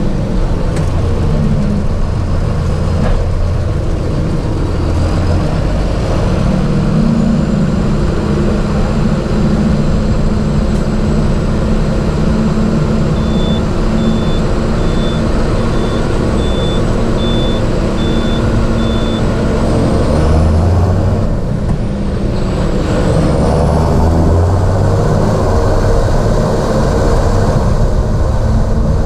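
John Deere 7430 Premium tractor's diesel engine running steadily, with a faint high whine over the engine note. About two-thirds through, the sound briefly drops, then the engine note shifts and picks up again.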